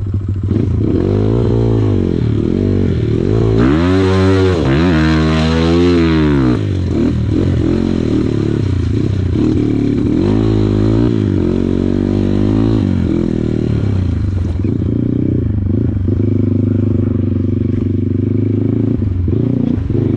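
Kawasaki KLX140 dirt bike's single-cylinder four-stroke engine revving up and down over and over as it is ridden, with the hardest rev about four seconds in. It runs more steadily over the last few seconds.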